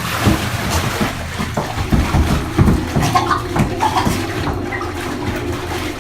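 Water splashing and sloshing in irregular bursts over a low, steady musical drone.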